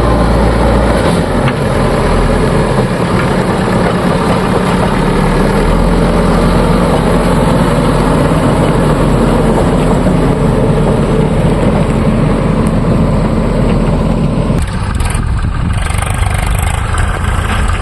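Diesel engines of heavy earth-moving machinery running loud and steady. About fifteen seconds in, the deep rumble drops away abruptly and the sound thins out.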